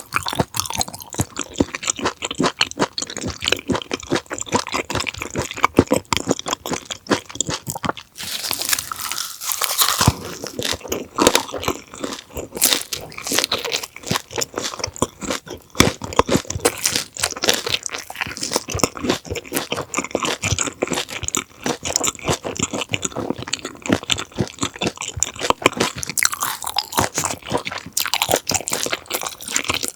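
Close-miked chewing and crunching of raw conger eel (anago) sashimi, a steady run of irregular wet bites, smacks and crunches.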